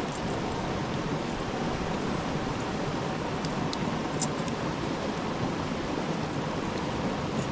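Campfire burning with a steady hiss and a few sharp crackles around the middle.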